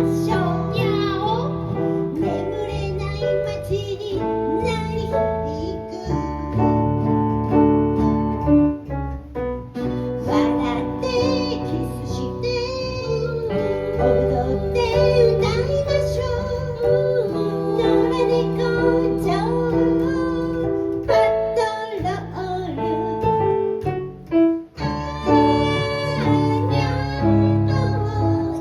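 A high voice singing a song with keyboard accompaniment, sustained chords under a wavering vocal melody.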